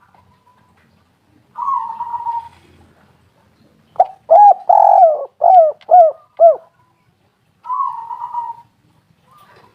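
Spotted dove (tekukur) cooing: a short rolling phrase, then a loud run of five or six arching coos about four seconds in, then another rolling phrase near the end.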